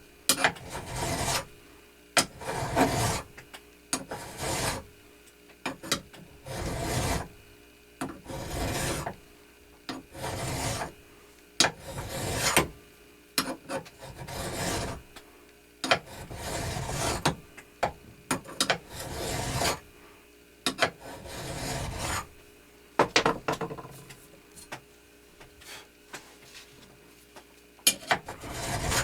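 A hand file being worked across a belt grinder's platen in slow, even strokes, about one every second and a half, with light clicks between strokes. The file is taking down a high spot on the platen's face.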